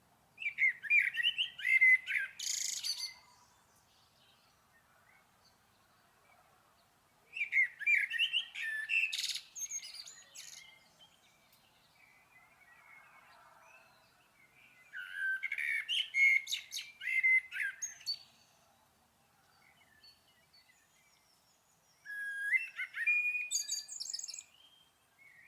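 A songbird singing: four short phrases of quick, varied chirping notes, each about three seconds long, several seconds apart.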